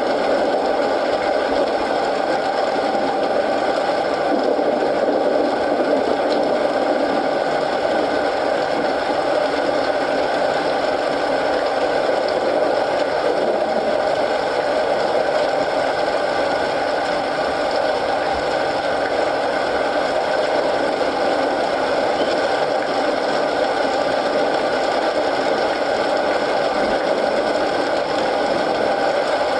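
Steady rain with a wood fire crackling in a fireplace, an even, unbroken hiss.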